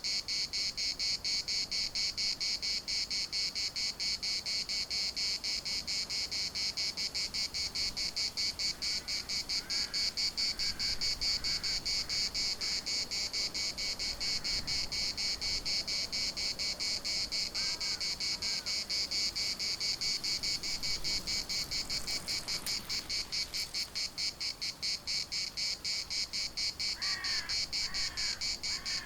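Chorus of cicadas giving a steady, high, rapidly pulsing buzz. A few faint short bird calls come through midway, and three come near the end.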